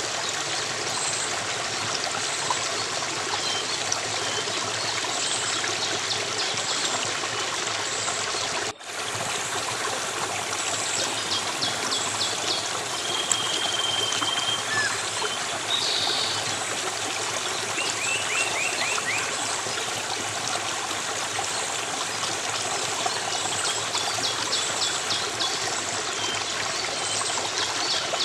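Running water flowing steadily, with small birds chirping and trilling high above it. The sound drops out for an instant about nine seconds in.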